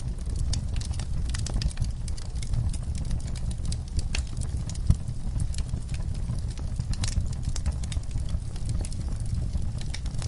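Fire crackling in a fireplace: irregular snaps and pops over a low steady rumble, with one sharper pop about five seconds in.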